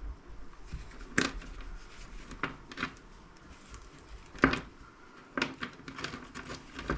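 Small plastic and metal scrap parts being handled and set down by gloved hands: scattered light clicks and clatters, the loudest a little after a second and about four and a half seconds in.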